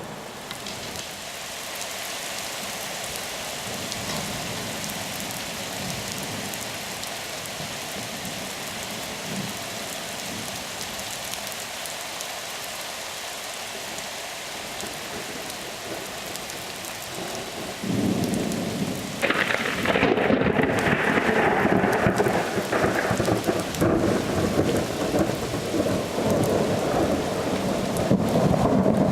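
Steady rain falling in a thunderstorm. About eighteen seconds in, a loud peal of thunder breaks and rumbles on for about ten seconds over the rain.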